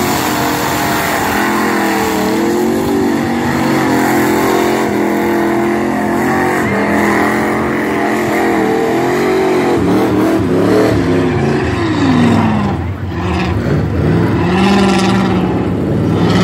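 Ford truck's engine running and revving, its pitch rising and falling again and again, with a brief drop about three-quarters of the way through before it settles on a steadier, higher note.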